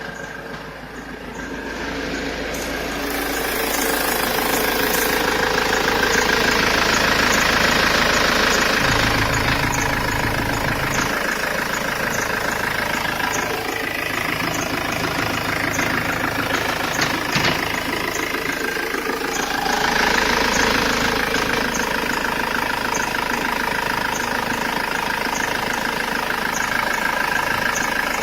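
LDV Convoy 2.4-litre turbo-diesel engine (ZSD-424) running. Its sound swells over the first few seconds and again briefly about twenty seconds in, then settles back to a steady run.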